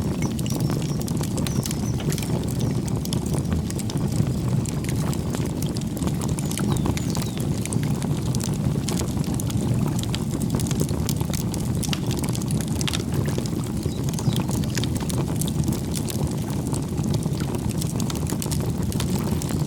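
Campfire burning with a steady low rumble and frequent irregular crackles and pops from the wood, with faint bird chirps at times.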